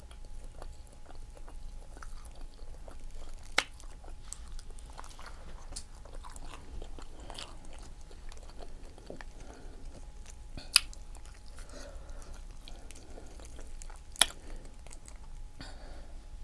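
Close-miked chewing of spicy seafood-boil shrimp, soft wet mouth sounds going on steadily. Three sharp clicks stand out, the first a few seconds in and two more near the middle and toward the end.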